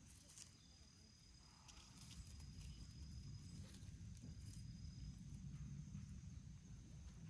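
Quiet outdoor ambience: a low rumble and a few faint, scattered clicks, with a thin steady high tone for the first few seconds.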